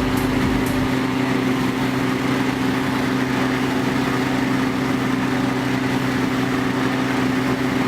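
Steady engine hum at a constant pitch, with no revving.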